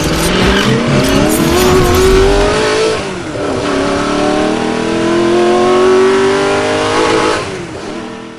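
Car engine accelerating hard: its pitch climbs, drops at a gear change about three seconds in, then climbs again in the next gear before fading away near the end.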